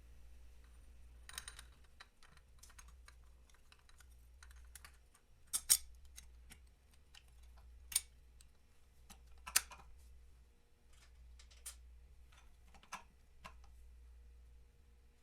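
Irregular small clicks and taps of hand tools and metal parts being handled during mechanical work, with a few sharper knocks in the middle.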